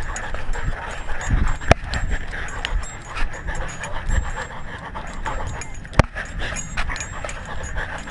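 A dog panting steadily, picked up close by a camera strapped to its own collar, with low thuds and two sharp clicks, about two and six seconds in, from the collar mount knocking as it moves.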